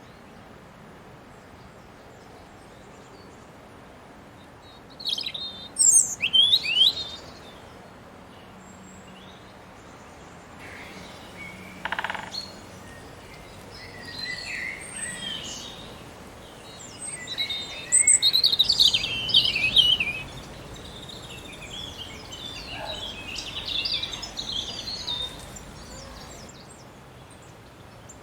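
Garden songbirds singing: a short loud phrase of quick high sweeping notes about five seconds in, softer twittering after it, then a longer loud run of song in the second half.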